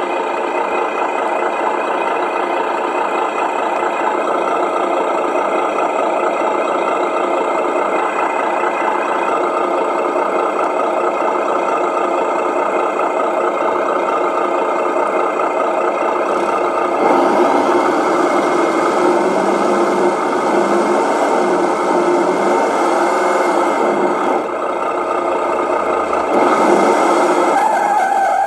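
Simulated diesel truck engine sound from the RC model truck's onboard sound unit, running steadily. It grows louder and busier about 17 seconds in and again near the end, as throttle is applied with the rear wheels lifted.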